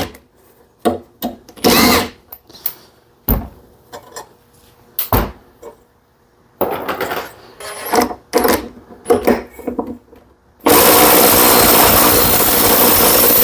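Hand tools clicking and knocking, then about ten seconds in an impact wrench runs hard for about three seconds on the flywheel nut of a 3.5 hp Briggs & Stratton engine, driven through a chrome socket.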